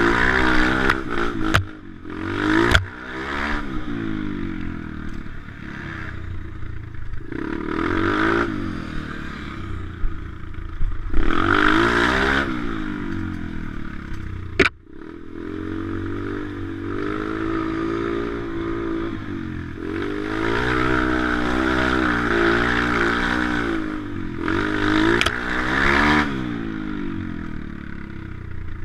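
Pit bike's small single-cylinder engine revving up and dropping back again and again as the bike is ridden, with rattling clatter and a few sharp knocks, the loudest about halfway through.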